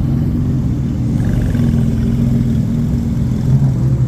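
A supercar's engine running at low revs as the car rolls by slowly, a steady low hum of engine notes with a slight lift in pitch in the first couple of seconds.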